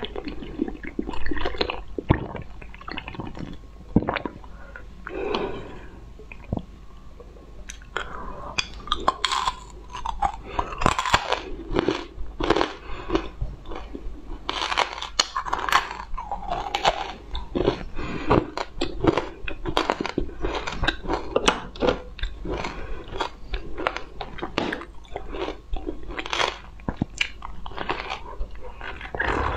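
Close-miked mouth sounds of chewing and crunching candy: many crisp crunches and wet clicks, growing much denser from about eight seconds in.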